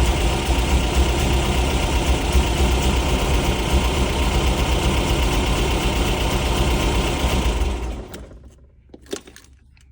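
The engine of a Porsche 550 Spyder replica idling steadily just after a warm restart made without pumping the accelerator, then switched off about eight seconds in, dying away quickly. A couple of faint clicks follow.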